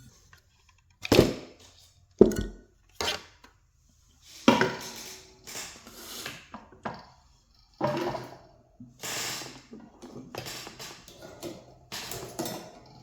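Tools and a speaker being handled on a work surface: a few sharp knocks and clatters in the first three seconds, then irregular scraping and rustling.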